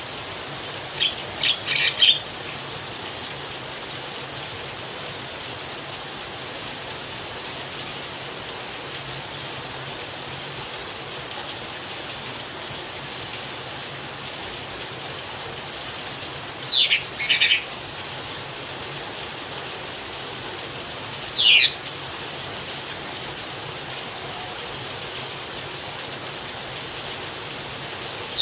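Steady hiss of falling rain, with a Javan myna giving short, high calls that sweep downward, in three brief bouts: a quick cluster about a second in, a pair a little past halfway, and one more about three quarters of the way through.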